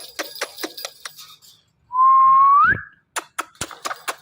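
Indian ringneck parrot giving one loud whistle lasting nearly a second, held steady and then sliding up at the end. Before and after it comes a run of rapid, sharp clicks.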